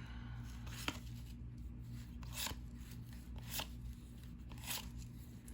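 Cardboard trading cards being flipped through one at a time, a short papery swish or flick roughly once a second, over a steady low hum.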